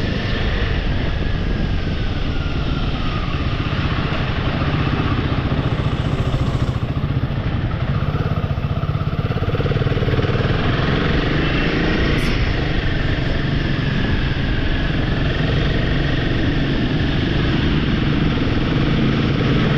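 Royal Enfield motorcycle engine running steadily while riding, with wind and road noise, and a higher tone that rises and falls a few times.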